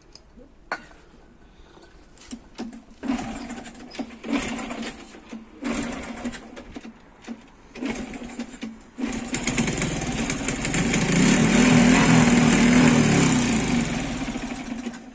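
Old scrap motorcycle engine, fed brake-cleaner spray instead of fuel, firing in a few short bursts and then catching about nine seconds in. It runs for about six seconds with its pitch rising and falling, then dies at the end.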